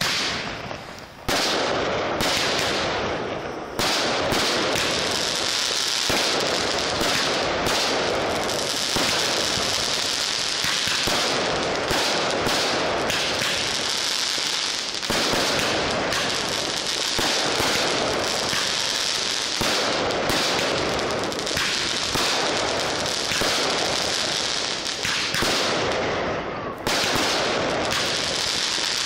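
Fireworks display: a dense, near-continuous crackle of crackling stars, with fresh loud salvos setting in every few seconds.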